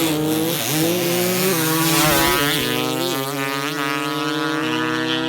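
Dirt bike engine revving: the pitch rises and falls with the throttle, then settles into a steadier held note about halfway through, with small steps in pitch.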